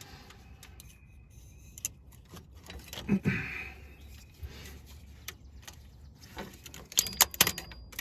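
Metal hand tools and parts clinking and rattling during work on a truck's front shock absorber mount, with scattered light clicks, a short louder clatter about three seconds in, and a cluster of sharp metallic clicks with a brief ring near the end.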